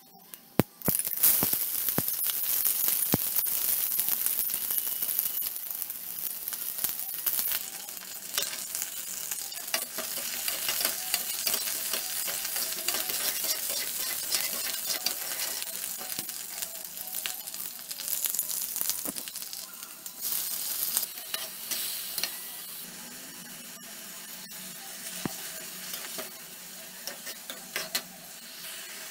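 Sliced onions and green chillies, and later chopped tomatoes, sizzling and frying in hot oil in a steel kadai while a spatula stirs and scrapes against the pan. The sizzle jumps up suddenly about a second in, with scattered clicks from the stirring.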